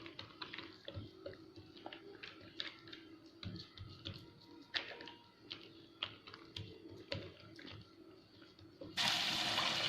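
Faint, irregular soft taps and pats as ragi dough is pressed and flattened by hand into small rotis. About nine seconds in, a loud sizzle starts suddenly as the dough goes into hot oil to fry.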